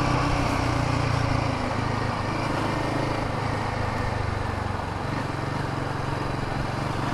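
Royal Enfield Himalayan 450's single-cylinder engine running steadily while riding, over wind and road noise; the engine eases off slightly about a second and a half in.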